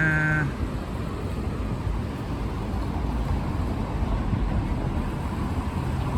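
Steady city street traffic noise. A short, steady pitched tone cuts off about half a second in.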